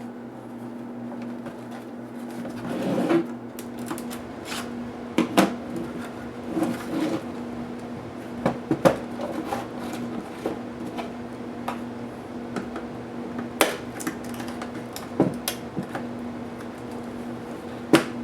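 Irregular clicks and knocks of laptop parts and tools being handled during disassembly of an HP DV8000 notebook, over a steady low hum.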